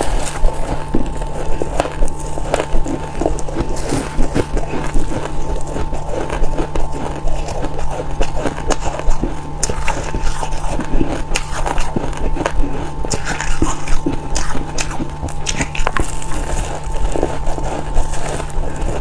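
Close-up crunching of white freezer frost being bitten and chewed: dense, irregular crisp crunches throughout, over a steady hum.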